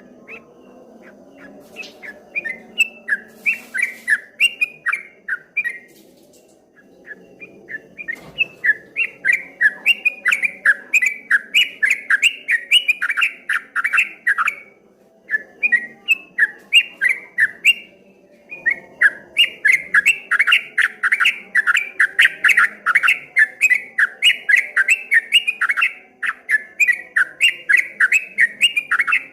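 Trucukan (yellow-vented bulbul) singing in rapid 'ropel' bursts: fast runs of short chattering notes that rise and fall in waves, in long phrases broken by a few short pauses.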